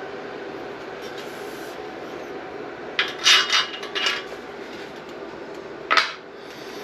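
Short rasping scrapes about three seconds in and again near the end, over a steady hum.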